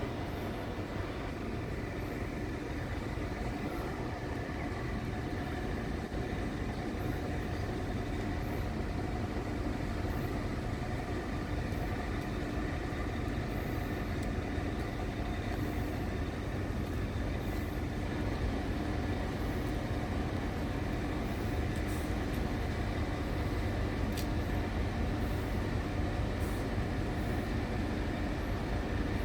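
Northern Ireland Railways diesel multiple unit running, a steady engine hum with several fixed tones over a low rumble, slowly growing louder.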